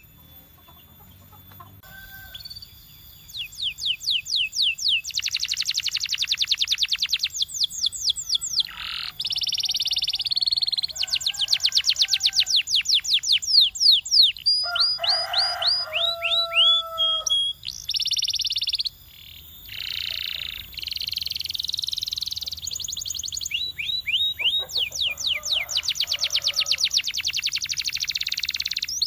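Canary singing a long song of fast trills, each a rapid run of repeated notes, switching to a new trill every second or two. It starts about two seconds in.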